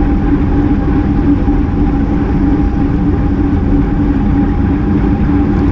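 Steady rush of wind over an action camera on a road bike moving at race speed, with the tyres rolling on pavement and a steady low hum.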